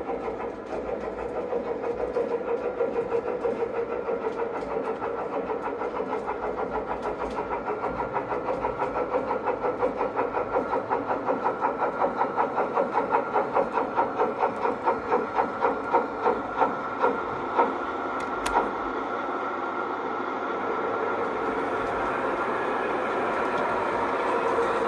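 LGB garden-scale model train running, with a rhythmic beat that grows louder, slows and stops about eighteen seconds in, as a train pulling in would. A single click follows, then the steady running sound swells again near the end.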